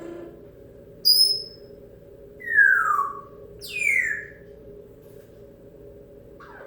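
African grey parrot whistling: a short high whistle about a second in, then two whistles that slide steeply downward in pitch, the last starting highest.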